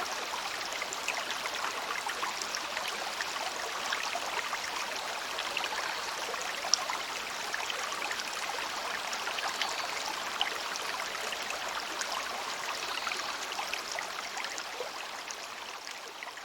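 Shallow stream babbling over stones: a steady rush of water with many small splashes and plinks, fading out toward the end.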